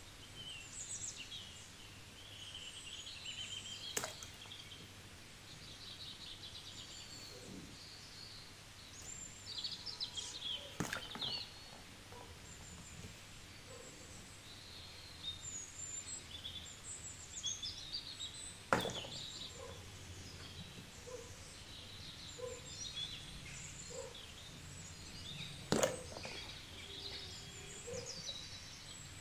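Birds chirping in the background, with four sharp knocks several seconds apart.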